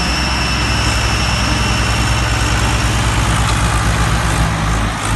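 Diesel tractor engine running with a deep, rapid throbbing. A thin, steady high whine sits over it and fades out about three seconds in.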